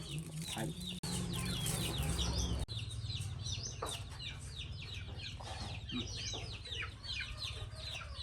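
Many birds chirping at once: dense, overlapping short falling peeps throughout, over a low steady hum.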